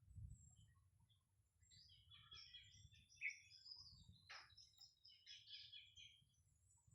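Birds chirping and calling, several short calls overlapping, busiest through the middle with one sharper call a little past three seconds. A faint low rumble runs beneath.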